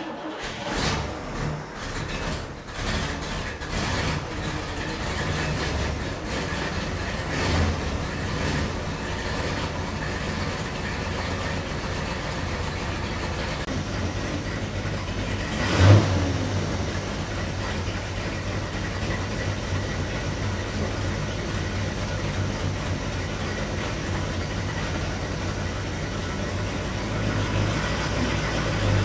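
Chevrolet Corvette C2 Sting Ray's high-performance 327 cubic-inch small-block V8 catching and running unevenly with a few blips for the first several seconds, then settling into a steady idle. One short, sharp rev comes about sixteen seconds in.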